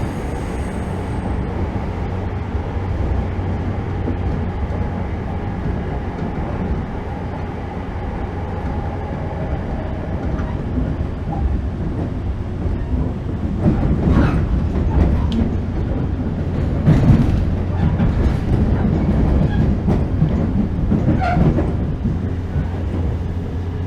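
Interior running sound of a JR Kyushu 415 series 1500 subseries electric multiple unit: a steady rumble and hum of motors and wheels on the rails. A high wheel squeal fades out in the first second or so. In the second half the wheels clatter over the track for several seconds.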